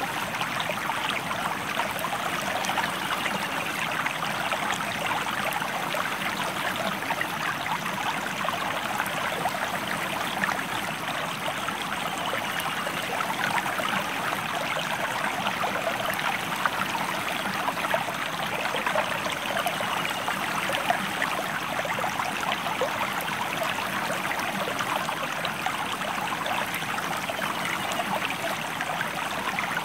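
A stream flowing steadily: a continuous rush of water, full of fine trickling and splashing.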